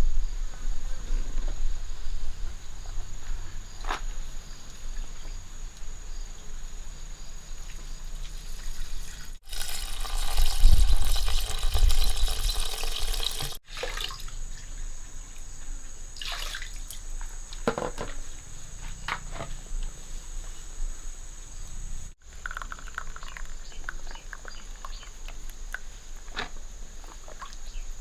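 Water pouring and splashing, loudest for about four seconds around ten seconds in, with drips and small knocks of handling around it. A steady high-pitched whine runs in the background and drops out during the loudest pouring.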